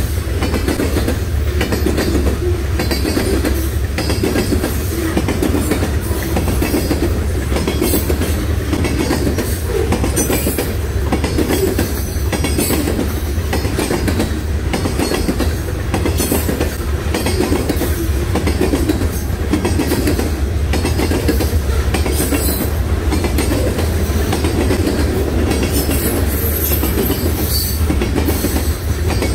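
Freight train of covered hopper cars rolling past at close range: a steady low rumble with a rhythmic clickety-clack as each car's wheels pass.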